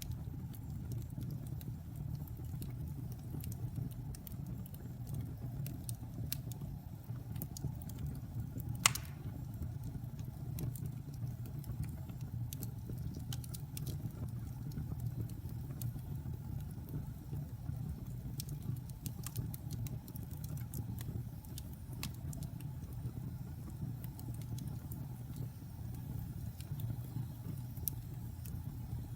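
Wood fire burning in a fireplace: a low steady rumble with scattered small crackles, and one sharp pop about nine seconds in.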